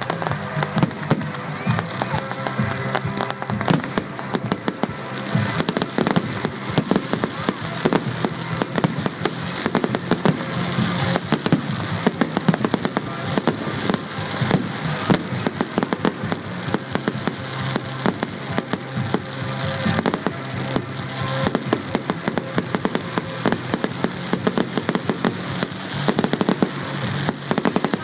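Fireworks display: a rapid, continuous run of bangs and crackles from bursting shells, with music playing underneath.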